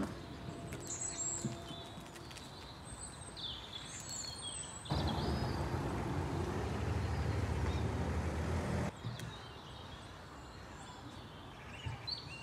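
Small birds chirping over a low outdoor background. From about five seconds in to about nine seconds, a louder low rumbling noise covers them, starting and stopping abruptly.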